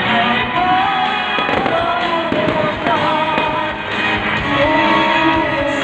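Aerial fireworks crackling and popping over loud music with a wavering melody line. The crackles are thickest about one and a half to three seconds in.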